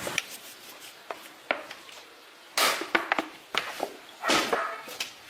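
A series of knocks and clicks, with two louder noisy scrapes about two and a half and four and a half seconds in.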